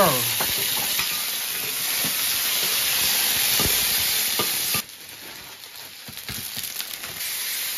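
Potato chunks sizzling in hot oil with scallions in a large iron wok, stirred with a metal spatula. The sizzle drops off sharply a little under five seconds in, leaving a fainter hiss with a few light knocks.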